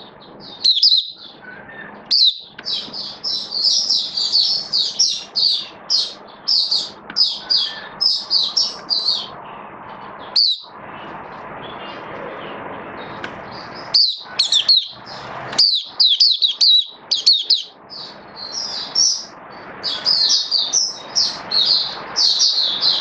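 White-eye (mata puteh) singing fast runs of high twittering chirps, with a break of a few seconds in the middle, over a steady background hiss.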